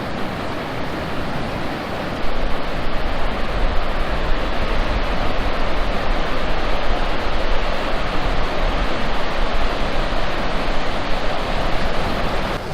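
Ocean surf: a steady rush of breaking waves washing up the beach, with a low rumble under it. It grows louder about two seconds in.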